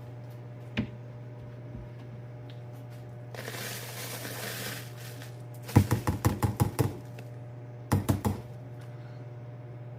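Handheld vacuum's plastic dust cup and filter being handled: a brief hiss, then a quick run of about eight light taps and clicks, and a shorter cluster of taps soon after, over a steady low hum.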